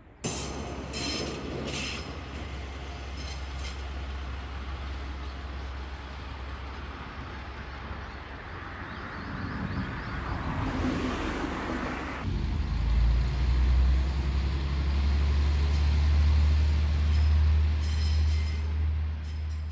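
Nagara River Railway diesel railcar running, with a few sharp clicks in the first two seconds, then a loud, steady low engine drone that sets in suddenly about twelve seconds in.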